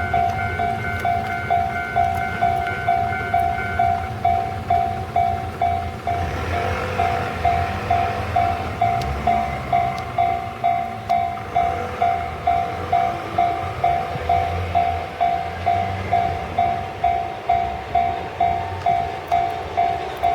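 Level crossing warning bell ringing steadily at about two strokes a second as a freight train hauled by an EF210 electric locomotive passes. The train's rumble and wheel noise swell about six seconds in and continue under the bell.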